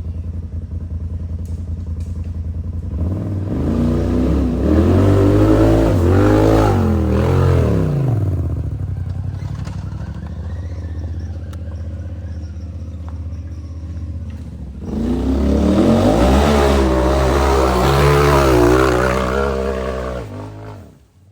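Side-by-side UTV engine idling, then revved hard twice for several seconds at a time, its pitch wavering up and down as the throttle is worked on a rock-crawl climb. The sound cuts off abruptly near the end.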